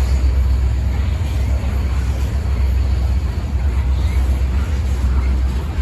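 Steady low rumble of a freight train rolling past, with no distinct clanks or horn.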